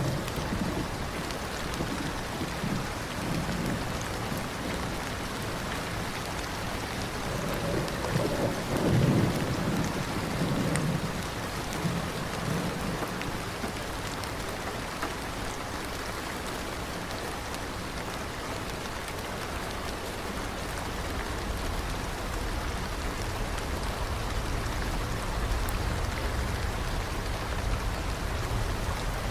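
Steady rain falling, with a low roll of thunder rumbling up about a third of the way through and fainter rumbling again near the end.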